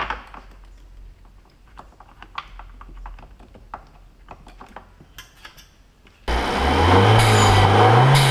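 Faint clicks and taps of hands fitting an intake hose and clamp in an engine bay. About six seconds in, there is a sudden switch to the Alfa Romeo MiTo's turbocharged petrol engine running loudly, its pitch rising and wavering as it is revved lightly.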